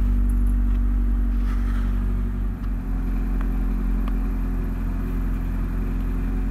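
Honda CRX four-cylinder engine idling steadily just after a cold start on its newly fitted fuel pump, heard from inside the cabin. The idle dips briefly about two and a half seconds in.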